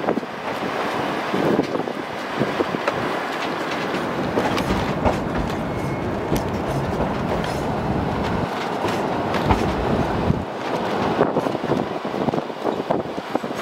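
Durango & Silverton narrow-gauge passenger coaches rolling along the track: a steady rumble of steel wheels on the rails with frequent clicks. The rumble is heaviest through the middle and eases near the end.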